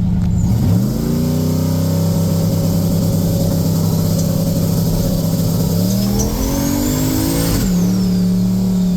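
Turbocharged LS V8 in a street truck, brought up from idle to a steady held rpm against the multi-stage launch limiter while it sits on the brake. Around six seconds in it steps up to a higher stage, with a rising turbo whistle as boost builds. It drops back to idle near the end.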